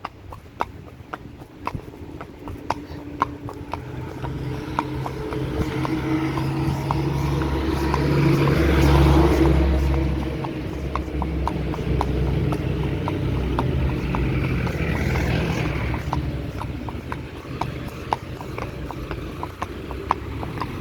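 Horse hooves clip-clopping on a hard path in a steady rhythm, about three beats a second. Under them is a low rumble that builds to its loudest about nine seconds in and then eases off.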